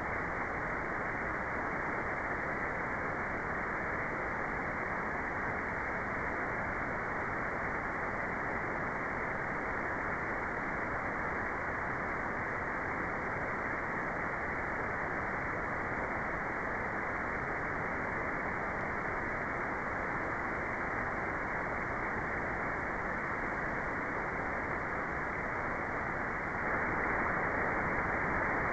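Steady electronically generated white noise, cut off above about 2 kHz so that it sounds like a muffled, even hiss. It gets slightly louder about two seconds before the end.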